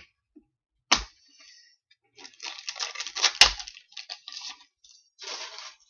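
Trading cards being handled and flipped: papery rustling and sliding, with three sharp knocks, the loudest about three and a half seconds in.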